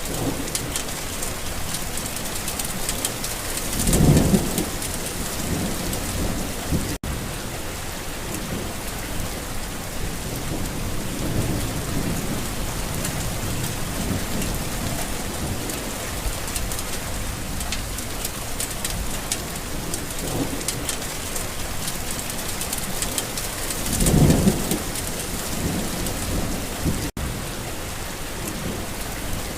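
Steady rain falling on a garden, with a loud roll of thunder about four seconds in and another near the end, and fainter rumbles in between. The sound drops out for an instant twice.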